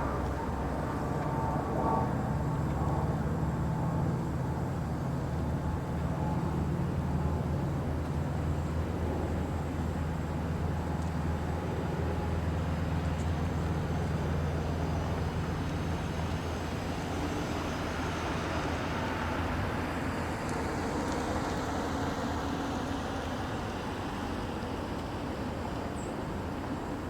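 A motor vehicle's engine running with a steady low hum, over road noise; the hum fades about two-thirds of the way through.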